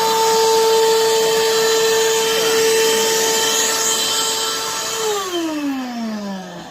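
A small electric or air-driven power tool's motor running at a steady high speed with a hissing whine. About five seconds in it is switched off and the pitch falls steadily as it winds down.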